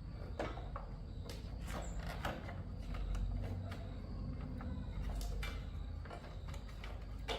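Scattered clicks, knocks and scrapes of tools and metal parts being handled while working on a motorbike, over a steady low hum.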